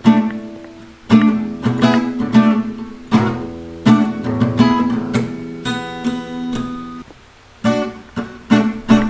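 Background music: an acoustic guitar strumming chords, with a short break about seven seconds in before the strumming resumes.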